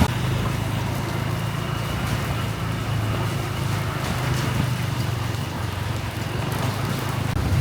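Steady low hum of motor vehicle engines under a continuous hiss of rain.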